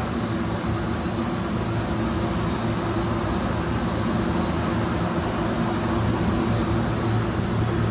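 Ventilation fan running steadily: a constant rush of air over a low, even hum.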